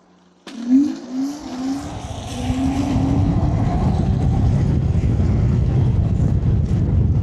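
Wind buffeting the microphone on a moving electric scooter, building into a loud, steady low rumble from about three seconds in. Before that come a few short rising-and-falling whines.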